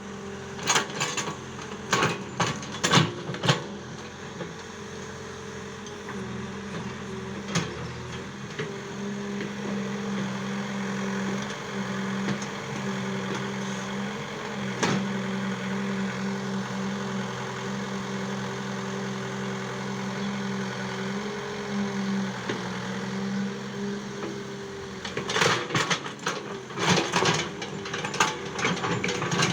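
Excavator engine running steadily, with a cluster of sharp knocks in the first few seconds and another near the end.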